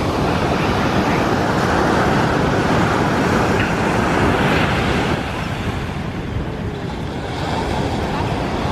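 Ocean surf washing onto the beach, with wind buffeting the microphone. The wash eases a little about five seconds in and swells again near the end.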